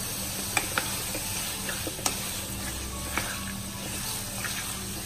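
Sliced chicken sausage and curry leaves sizzling steadily in hot coconut oil in a metal pan. A wooden spatula stirs them and knocks against the pan a few times in the first few seconds.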